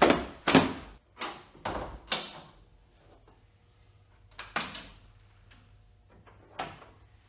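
A string of sharp clacks and thunks, several in quick succession at first, then a pair and a last single one: a Jeep Wrangler's hood being unlatched and opened.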